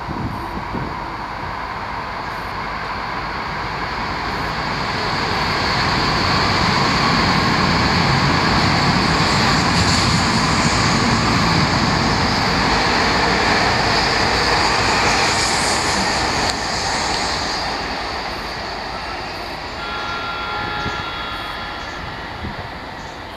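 Train running past, its rumbling noise building over a few seconds, holding strong for about ten seconds, then fading away, with thin high squealing tones near the end.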